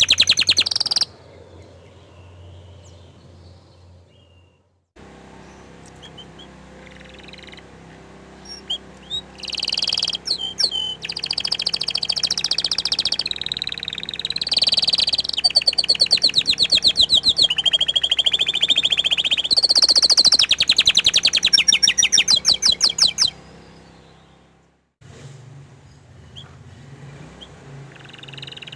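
Orange frost canary singing: fast rolling trills and chirps in long loud bursts through the middle, with quieter stretches before and after.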